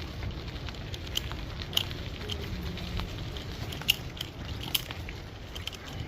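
Storm wind buffeting the microphone as a steady low rumble, with scattered sharp clicks and crackles through it.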